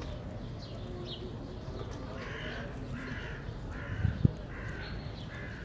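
A bird calling five times, a little under a second apart, over steady street noise. A single sharp thump comes just past the middle.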